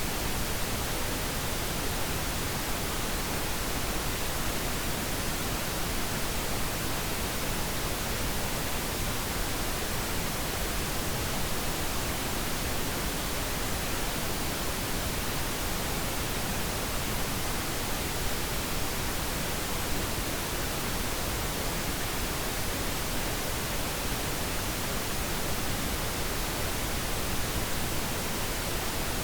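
Steady pink noise, even and unchanging: a continuous hiss with its weight toward the low end.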